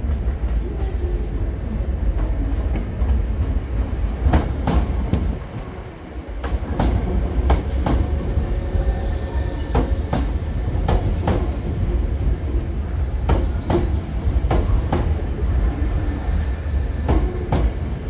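Electric commuter train rolling slowly through the station points with a steady low rumble. The wheels clack over rail joints and points, mostly in close pairs a few seconds apart, from about four seconds in.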